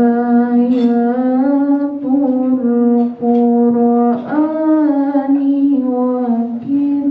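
A woman's voice reciting the Qur'an in melodic tilawah style, holding long sustained notes that glide slowly between pitches, with short breaks between phrases.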